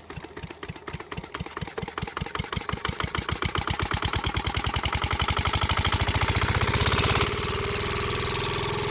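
Engine chugging that starts slow and speeds up steadily over several seconds into a continuous run, settling into a steady hum about seven seconds in, like a tractor engine starting up.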